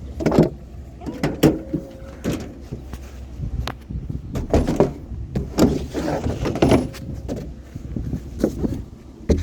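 A string of irregular knocks, clunks and rattles as found items are picked up and loaded, over a low steady rumble.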